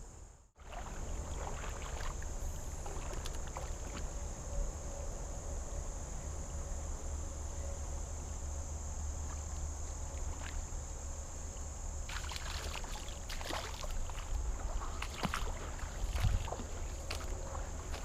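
Crickets chirring steadily, over a low rumble of wind and moving water, with scattered clicks and splashes that grow busier near the end.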